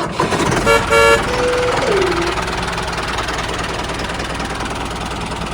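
A vehicle horn honks twice in quick succession. A short falling tone follows, then a steady engine-like running noise.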